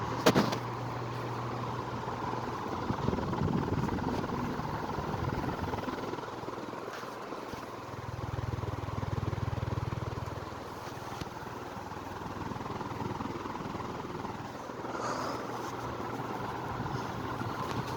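Ventisol Wind Comercial ceiling fan running: a steady motor hum over the rush of moving air. There is a sharp click just after the start and a low swell about halfway through.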